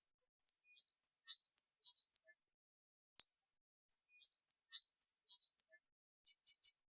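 Kemade bird singing clear, high chirps. Two phrases each open with a rising whistle followed by quick up-and-down notes, and a fast run of four short clipped notes comes near the end.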